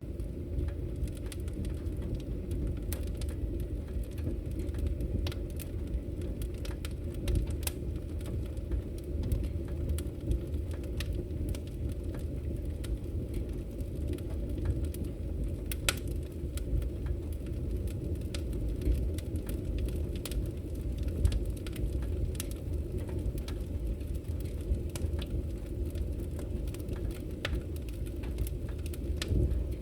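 Wood fire crackling in a fireplace: frequent short pops and snaps over a steady low rumble of burning logs.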